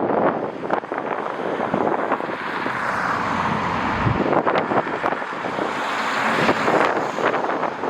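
Strong gusty wind buffeting the microphone, with irregular sudden blasts over a steady rushing noise.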